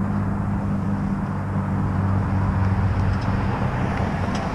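Steady low hum of a motor vehicle's engine running, with a rushing noise.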